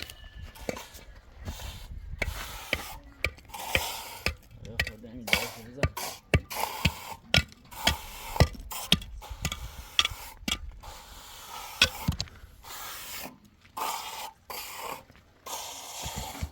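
Hand work on wooden boards: a run of sharp knocks, roughly two a second, mixed with rasping, scraping strokes, which thin out after about twelve seconds.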